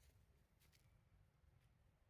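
Near silence, with a few faint soft clicks.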